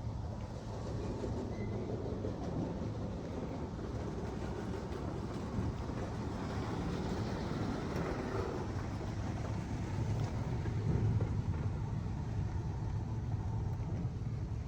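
Mark VII AquaJet GT-500 touch-free car wash running: a steady noise of machinery and spray over a low hum, growing slightly louder.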